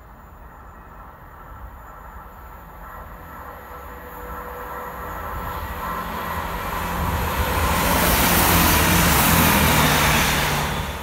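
Passenger train approaching at speed and passing close by on the main line, its noise building steadily from a distant rumble to a loud rush of wheels on the rails as it goes past, loudest near the end.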